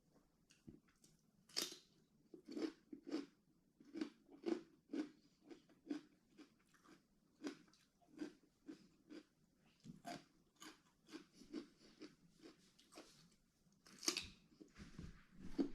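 A person chewing food close to the microphone: a steady run of crisp, crunchy chews about two a second, with a louder crunch near the end.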